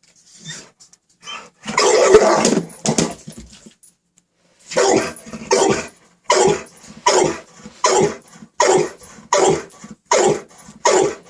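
Dog barking at a vacuum cleaner: a cluster of barks a couple of seconds in, then a steady run of about eight single barks, a little more than one a second.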